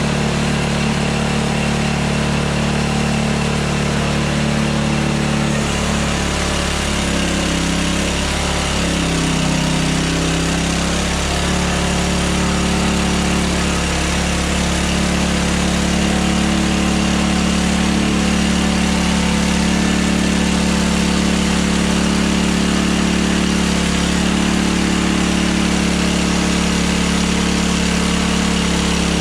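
Hudson Hunter portable band sawmill's gas engine running steadily. Its pitch shifts and wavers between about six and eleven seconds in, then holds steady.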